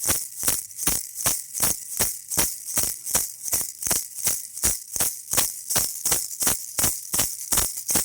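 Baby rattle shaken in a steady, even rhythm, about four to five shakes a second, each shake a bright, hissy rattle of beads.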